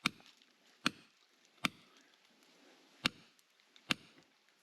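A hand digging tool striking hard ground five times, steady sharp blows about 0.8 s apart, with one longer pause in the middle.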